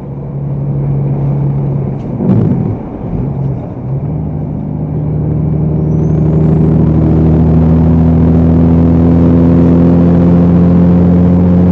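Motor vehicle engine running at a steady pitch, getting louder and holding a steady drone through the second half. There is a brief sharp knock about two seconds in.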